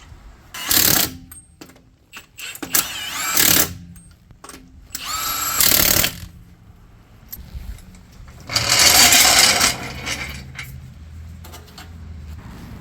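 Handheld power drill run in four short bursts of about a second each, its pitch shifting within each burst.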